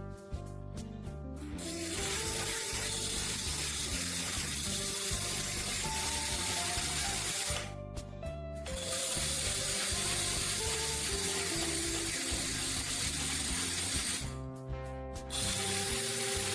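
Background music with a steady rushing hiss laid over it. The hiss starts about two seconds in, breaks off for about a second near the middle, resumes, and stops again a couple of seconds before the end.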